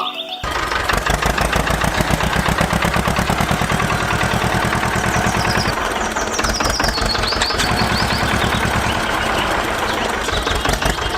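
Small engine of a homemade mini tractor running at a steady speed, with a fast, even beat of firing pulses.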